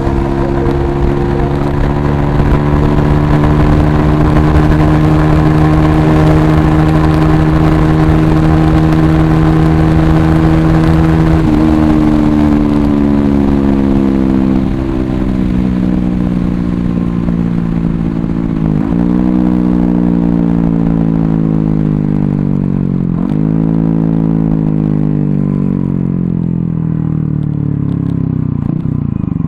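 Yamaha R15 v3's 155 cc single-cylinder engine through an SC Project exhaust, held high in the revs with its pitch climbing slowly under hard acceleration. It then steps down in pitch twice as it slows. Two sharp dips and recoveries in pitch follow later, typical of gear changes, before it settles at lower revs.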